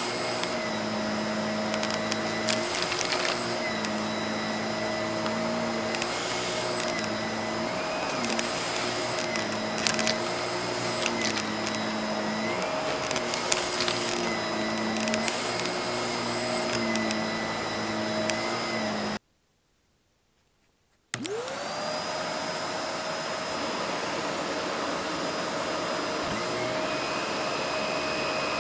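Vacuum cleaner running while sucking up cut-up cardboard puzzle pieces, with scattered sharp clicks and rattles as pieces go up the hose and a motor note that wavers. About two-thirds through the sound cuts to silence for two seconds, then the motor starts again, winds up to speed and runs steadily.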